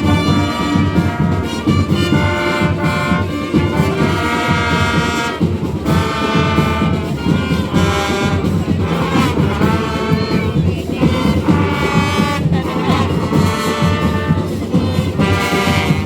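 Marching band playing: brass instruments such as trumpets and trombones sound a tune over steady drumming.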